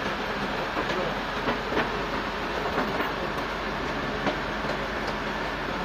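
Sawmill machinery running: a steady mechanical din with irregular clicks and knocks.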